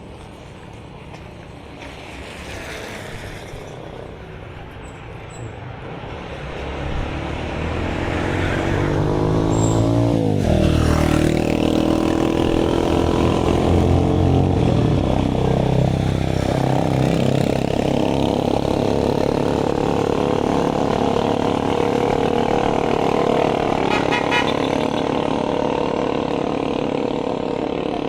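A motor vehicle approaches and passes close by on the road, growing louder over the first eight seconds. Its engine pitch drops as it passes about ten seconds in, then a loud, steady engine sound continues.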